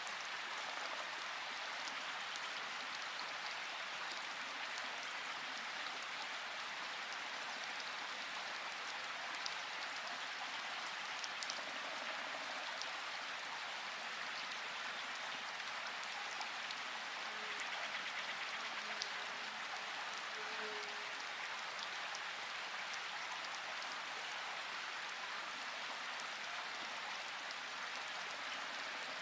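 Steady rainfall in a forest, an even patter with scattered individual drops ticking.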